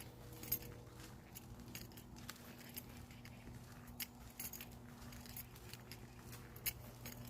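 Small birds giving scattered short, sharp high chirps, over a steady low hum.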